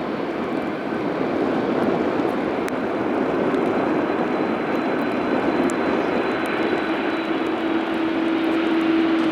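Lufthansa Boeing 747-400's four turbofan engines on landing approach: a steady jet roar that slowly grows louder. A steady low hum comes in about halfway through, with a faint high whine above it.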